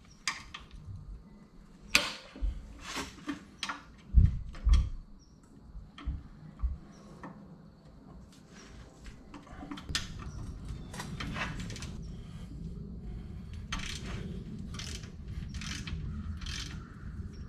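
Hand tools clicking and clanking on steel as a damaged nut on a hydraulic cylinder bolt is worked at, with several sharp knocks in the first half. From about ten seconds in, a steady low hum runs under a run of regular clicks.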